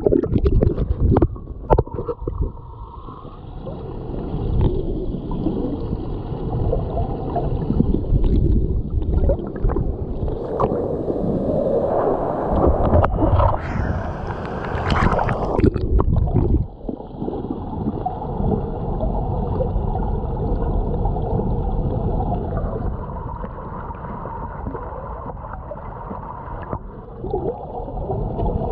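Muffled gurgling and sloshing of stream water, heard with the microphone at or under the surface. Irregular knocks and splashes come about a second in and again in a louder stretch roughly halfway through.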